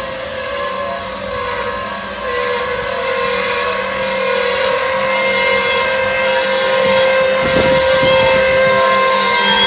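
Loaded coal cars of a freight train rolling by with several steady, high-pitched metallic squeals from wheels and brakes, slowly growing louder.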